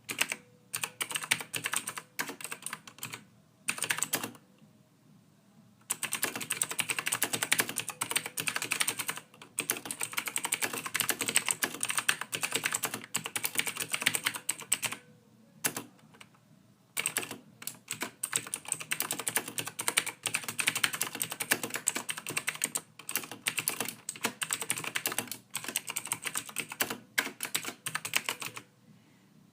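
Typing on a computer keyboard: fast, dense runs of keystroke clicks broken by a few short pauses, the longest about a second and a half a few seconds in.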